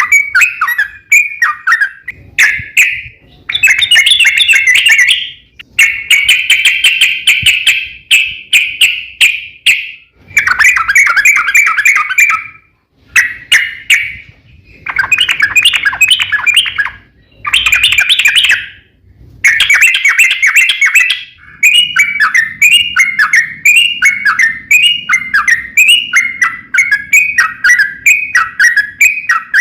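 Yellow-vented bulbul (trucukan) singing loud, rapid chattering phrases in bursts with short pauses between them. Near the end it settles into a repeated short phrase about twice a second.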